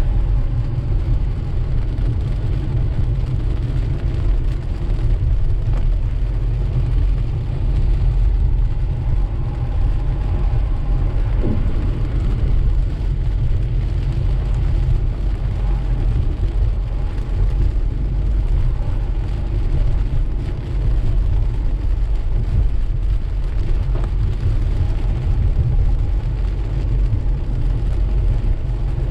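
Car driving through steady rain on a wet road, heard from inside the cabin: a steady low rumble of road and engine noise under an even hiss of tyres and rain.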